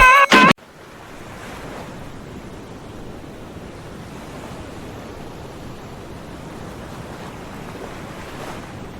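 Background music stops abruptly about half a second in. After that comes a steady rush of water flowing at a dam, with no rhythm or tone.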